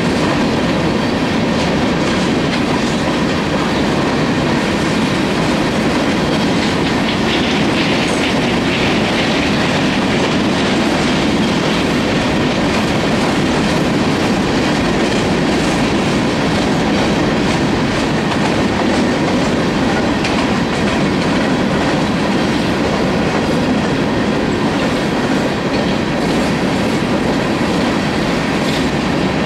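Freight train of coal hopper cars rolling past at steady speed: a continuous rumble of steel wheels on rail with clickety-clack from the wheels over the rail joints.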